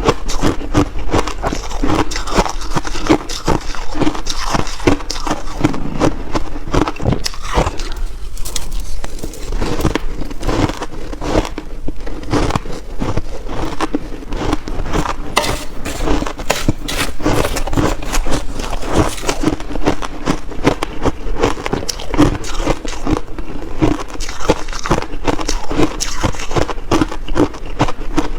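Close-miked crunching and chewing of big mouthfuls of frozen shaved ice: a dense, irregular run of crackling crunches.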